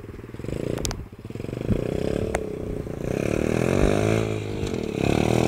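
125cc pit bike engine revving under acceleration, its pitch rising and falling as the throttle is worked. Two sharp knocks come in the first couple of seconds.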